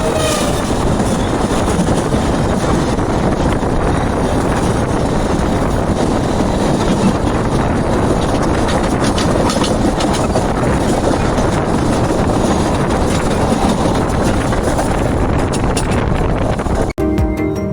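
Passenger train running: a steady rumble of wheels on the track mixed with a rush of air. Near the end it cuts off suddenly and music starts.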